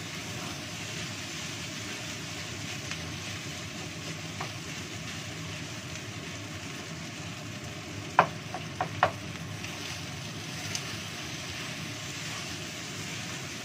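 Fried rice sizzling steadily in a nonstick wok over a high gas flame as a wooden spatula stirs it, with three quick knocks of the spatula against the pan a little past halfway.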